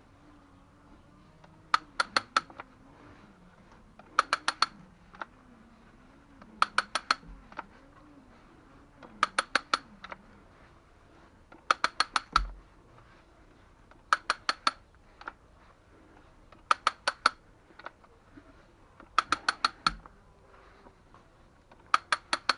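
Ratchet handle of a hand pipe-cutting tool clicking in bursts of four or five quick clicks, one burst about every two and a half seconds as the handle is worked stroke by stroke.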